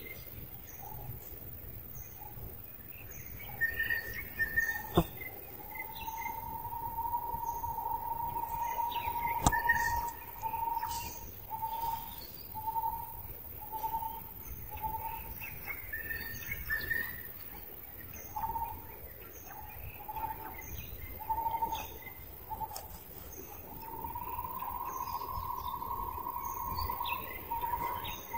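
Birds calling. One repeats a mid-pitched whistled note, held long, then broken into a steady series of short notes, and held long again near the end, while other birds chirp higher. Two sharp clicks come about five and nine seconds in.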